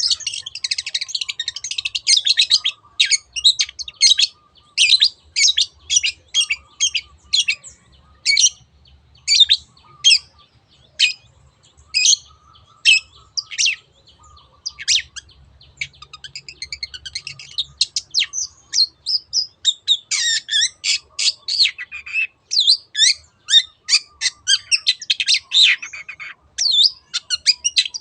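Long-tailed shrike (cendet) singing its 'teot teot' song: short, sharp, high notes repeated about two or three a second, with fast chattering runs near the start and again in the last third.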